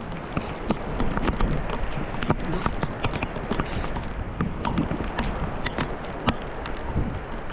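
Heavy rain on a swimming pool's water: a steady hiss with many irregular sharp ticks from drops striking close by, over a low rumble.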